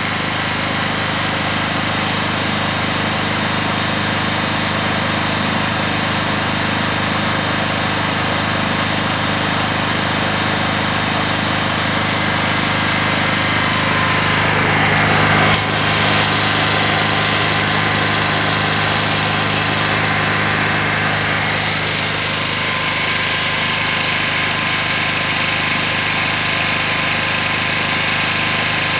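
Generac generator engine running steadily after an automatic start. Its level rises slightly and then drops back suddenly about halfway through.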